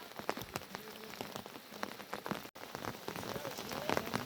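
Steady rain, dense patter of drops striking a surface, with a momentary break in the sound a little past halfway.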